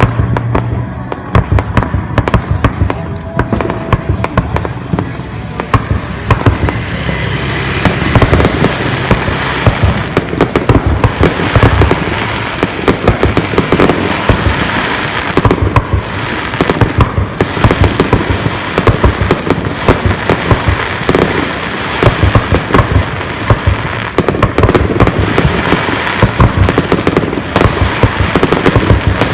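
Aerial fireworks display: a continuous barrage of shell bursts, bangs and crackling, densely overlapping, with a brief hissing swell about seven seconds in.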